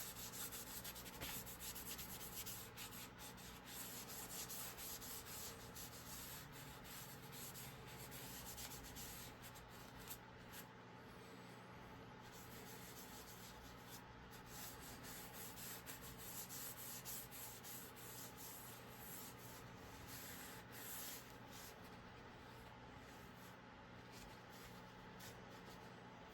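Quiet hand sanding: abrasive rubbed against the hammer in continuous scratchy strokes.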